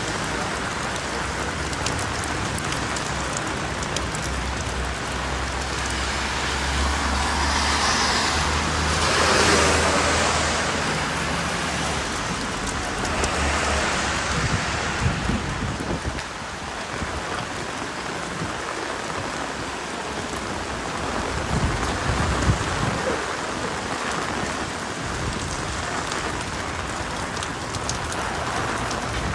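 Steady rain falling on a city street, with a motor vehicle passing on the wet road that swells to loudest about ten seconds in and then fades.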